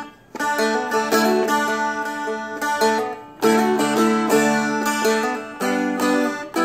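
Seagull Merlin played with a pick, running the verse pattern: notes alternating between the middle and high strings, with full strums to hit the root note. The playing pauses briefly just after the start and again about three seconds in.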